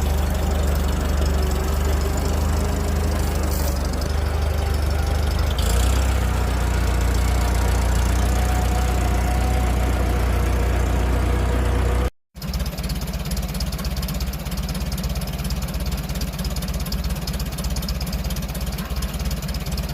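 1947 Farmall A tractor's four-cylinder engine running steadily after its first start in months. A brief gap about twelve seconds in, after which it sounds thinner, with less low rumble.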